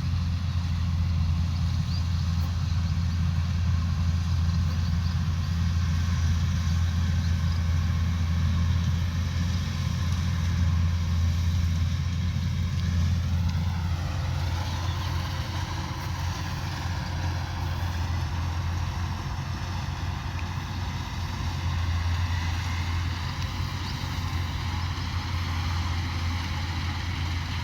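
Kubota combine harvester's diesel engine running steadily with a deep drone. About halfway through, a higher whine glides up and down and then settles into a steady higher tone.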